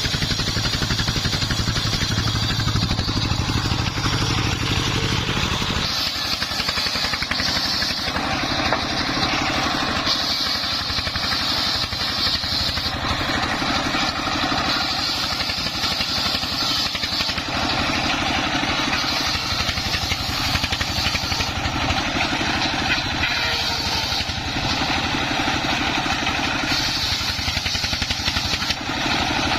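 Dongfeng 24 hp single-cylinder diesel engine running steadily, driving a homemade circular saw. A higher sawing whine comes and goes every few seconds as the blade cuts through timber.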